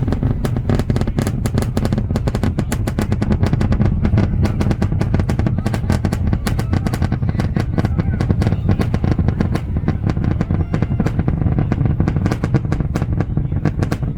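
Rocket roar from the SpaceX Starship Super Heavy booster's 33 Raptor engines: a steady, loud low rumble full of rapid crackling.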